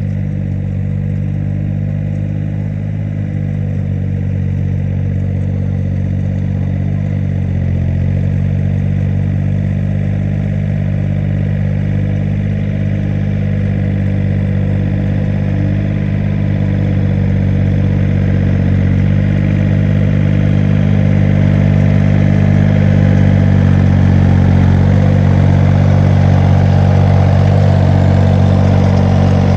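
A small engine running steadily and loudly, dipping briefly in pitch a couple of times and slowly growing louder.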